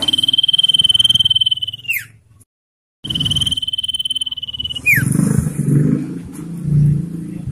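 Common iora giving its long rattling trill: a fast, even trill held on one high pitch for nearly two seconds and ending in a quick downward slur, then after a brief cut the same trill again. From about five seconds in, a loud low rumbling noise takes over.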